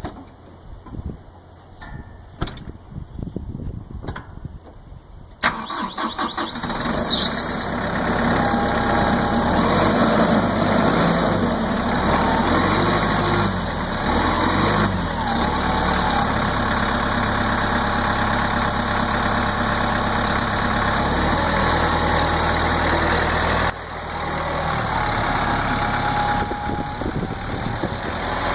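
Kubota M126GX tractor's four-cylinder turbo-diesel engine starting about five seconds in, after a few quieter clicks and knocks, then running steadily with its speed rising and falling at times.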